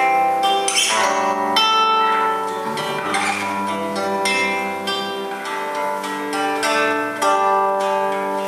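Instrumental worship music led by a plucked guitar, its chords changing about every second.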